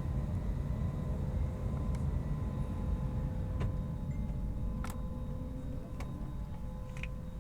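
Airbus A321neo airliner on its takeoff: a steady low jet rumble with an even hum over it, and a few sharp light clicks or rattles about one to two seconds apart.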